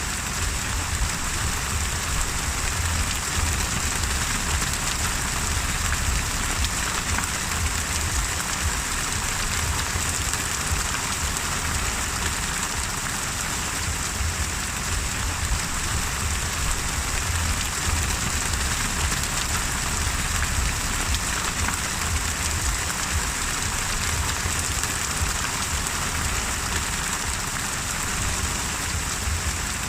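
Steady rain falling without a break, with a continuous low rumble underneath.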